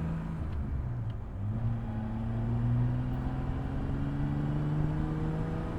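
Engine running steadily, with one tone rising slowly from about a second and a half in, as if it is gradually revving up.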